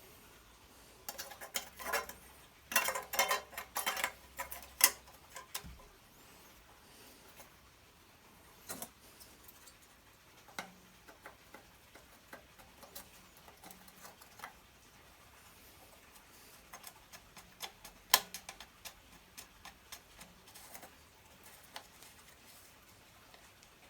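Scattered clicks, taps and light knocks of small parts and hand tools being handled during reassembly of an old Honda generator, in two busy spells with quieter gaps between.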